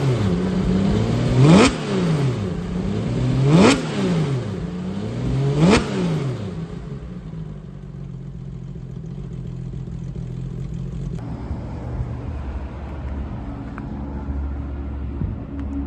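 2005 Porsche 911 GT3's flat-six engine blipped three times, about two seconds apart, the revs shooting up and dropping straight back each time. It then settles to a steady idle.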